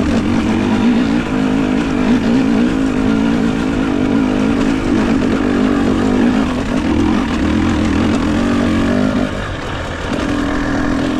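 Enduro dirt bike engine running under steady throttle, its note easing off about nine seconds in and picking up again a second later.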